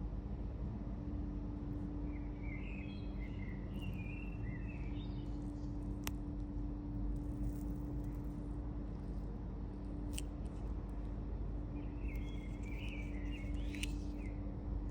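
Steady low hum under a bed of background noise, with two short spells of high chirping a few seconds apart and a couple of sharp clicks.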